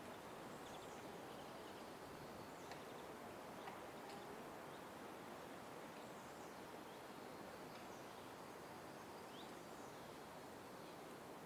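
Outdoor park ambience: a steady low background noise with a few faint, brief bird chirps scattered through it.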